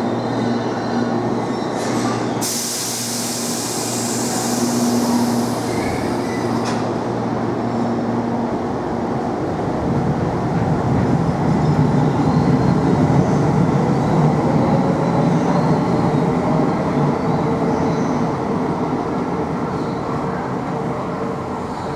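Tobu 8000 series electric train pulling out of the station: a steady hum while it stands, a loud burst of air hiss a couple of seconds in, then the cars rolling away with a rising rumble of wheels and motors, loudest about halfway through and easing near the end.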